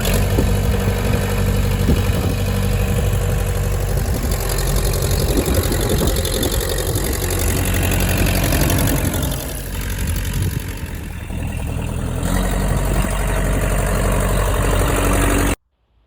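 Engine of heavy loading equipment running steadily, with scattered knocks and clatter during the first half. The sound cuts off abruptly just before the end.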